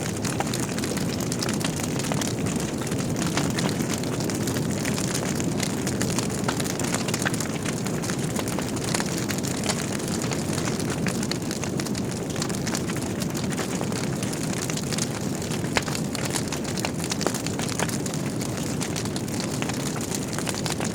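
Wood fire burning in a fireplace: a steady low rumble of flames with many small irregular crackles and occasional louder pops from the burning logs.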